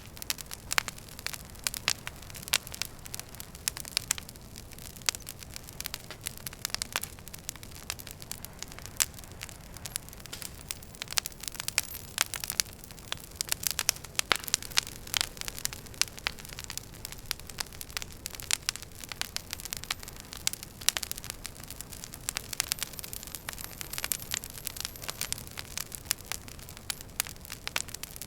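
Wood fire crackling in a fireplace: a steady stream of sharp pops and snaps, several a second, over a soft hiss of burning logs.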